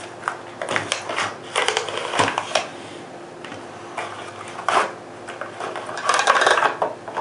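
A cardboard box of rifle cartridges being opened and handled by hand: scattered clicks, rustling and small clinks, in three clusters of handling.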